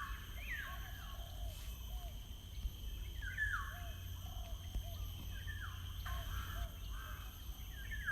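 Birds calling: a string of short calls that each fall in pitch, coming roughly once a second, over a steady low rumble.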